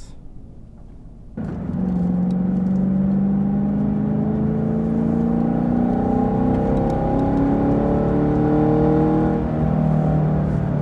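2018 Camaro SS 1LE's 6.2-litre V8 pulling away under light throttle: it comes in suddenly after a second and a half of quiet, its note rising slowly in pitch for several seconds, then dropping back near the end as the revs fall.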